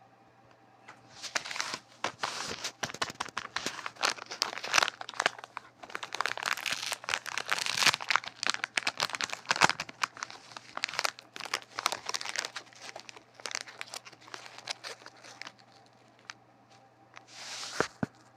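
Crumpling and tearing of wrapping, handled close to the microphone. It is a dense, irregular crinkling with many sharp crackles that goes on for about fifteen seconds. After a short pause, a brief burst of crinkling comes near the end.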